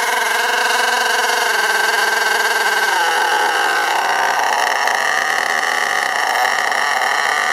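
STS D30M nitro RC engine running at speed, revving up and dropping down slightly on its own, with its pitch shifting about three seconds in. This surging is the engine running away with itself while it is being run in.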